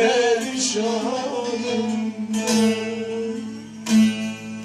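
Folk singing to a plucked string instrument: a voice holds a wavering final note, and the instrument strikes a chord about two and a half seconds in and a last, loudest strum about four seconds in.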